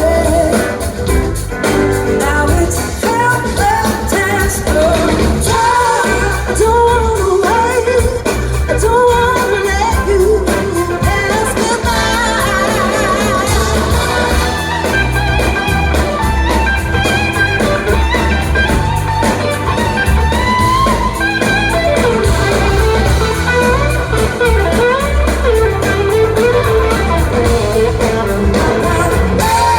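Live rock band performing a song: singing over electric guitar and a steady bass line, loud and continuous.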